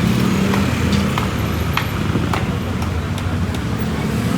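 Street ambience: a motor vehicle's engine running close by with a steady low hum, and scattered light ticks.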